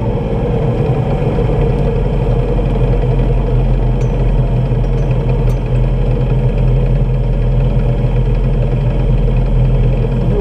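Off-road rally buggy's engine idling steadily, heard from inside the cockpit.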